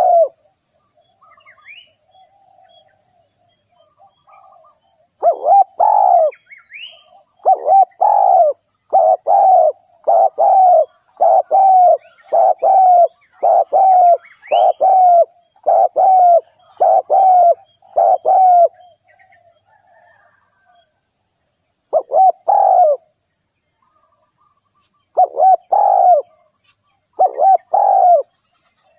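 Spotted dove cooing: a long run of short, evenly spaced coo notes, then pauses and two shorter groups near the end. This is the territorial call of a decoy bird used to lure wild doves. Faint high chirps of other small birds and a steady thin high hiss run underneath.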